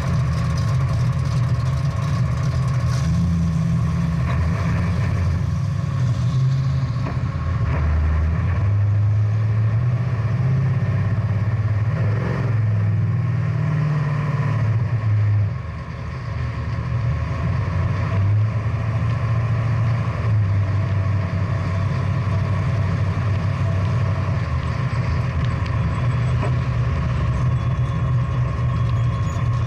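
Big-block V8 muscle car engine running at low speed, a steady low engine note with a short drop in level about halfway through.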